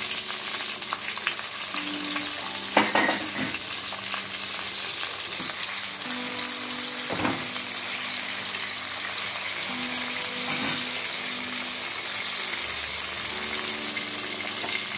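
Lemon wedges sizzling as they fry in oil in a metal kadai over a low flame. A ladle stirs them, knocking against the pan a few times.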